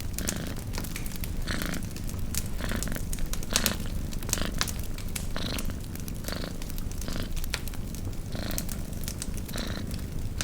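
Domestic cat purring steadily, the purr swelling about once a second with each breath, over the sharp crackles and pops of a campfire.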